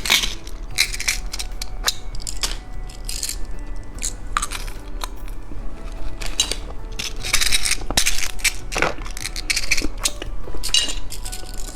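Candy packaging being handled, crinkling with irregular sharp clicks and taps.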